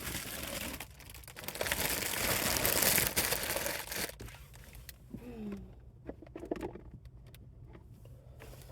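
A bag rustling and crinkling for about four seconds as things are packed into it, followed by a few light clicks and knocks from handling items.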